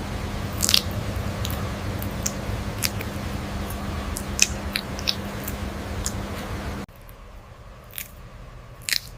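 A pet parrot making scattered small clicks, crunches and brief high squeaks, as when nibbling or chewing, over a steady low hum. The background changes abruptly about seven seconds in.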